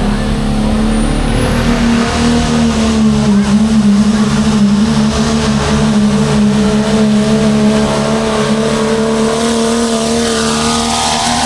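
Pulling truck's engine running flat out under heavy load as it drags the weight sled down the track, a loud, steady engine note with a high whistle that rises over the first couple of seconds and then holds. The pitch sags slightly near the end.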